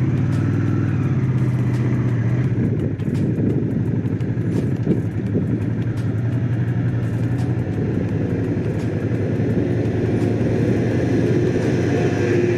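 Honda CX500's V-twin engine running on the move, its pitch rising briefly just after the start and then holding fairly steady.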